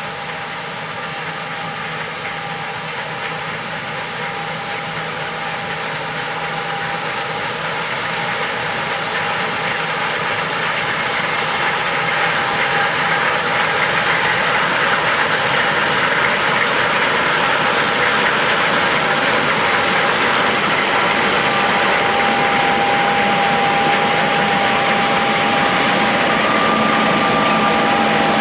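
John Deere S670 combine harvesting soybeans: a steady engine-and-machinery drone with a faint whine. It grows gradually louder over the first dozen seconds, as the combine draws nearer, then holds steady.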